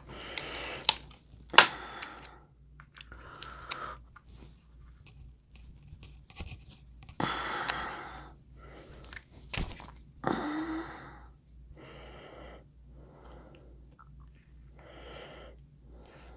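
Close-up eating sounds: chewing and smacking on crab claw meat in a run of short wet mouth noises, with a couple of sharp clicks, one about one and a half seconds in and one about nine and a half seconds in.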